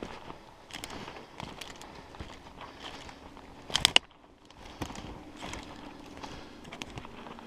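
Footsteps through brush and forest floor, twigs and leaves crackling underfoot at an uneven pace, with one louder crackle about four seconds in.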